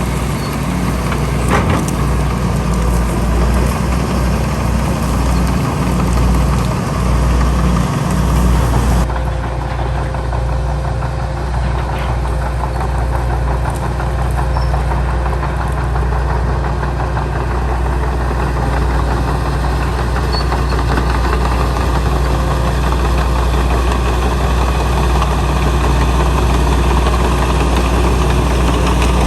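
Diesel engine of heavy earthmoving machinery running steadily. The sound changes abruptly about nine seconds in, then carries on evenly.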